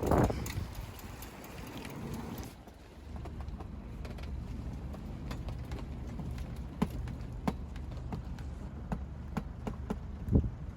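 Steady low hum of a boat's engine under way, with scattered light clicks and a couple of low thumps near the end.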